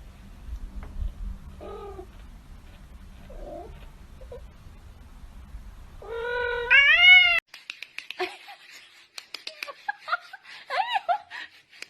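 A cat yowling: a few faint short meows, then a loud drawn-out call that rises in pitch about six seconds in and is cut off abruptly. A run of light clicks and taps follows, with a few more short cat calls.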